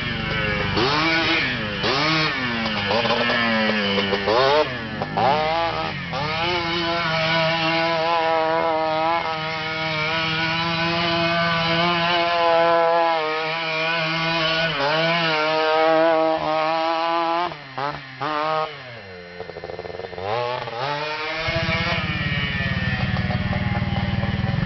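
Small motorcycle engine revving: it rises and falls several times, is then held at high revs for about ten seconds, drops away, and settles to a low idle near the end.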